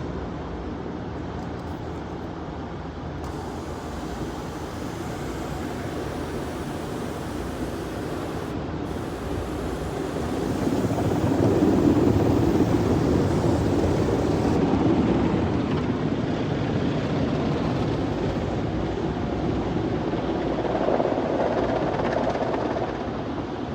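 Steady rushing noise inside a truck's cab, swelling louder about ten seconds in and again near the end.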